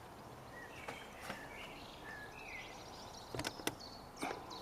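Faint bird chirps, short rising and falling calls, over a low outdoor background, with a few sharp clicks from handling.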